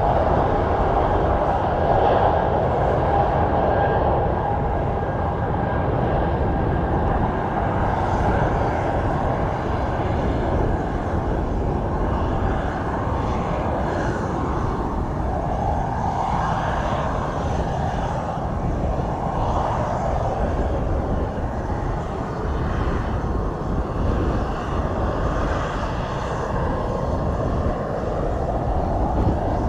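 Airplane engines running, a steady loud rumble throughout, with a steady whine on top that fades away over the first seven seconds or so.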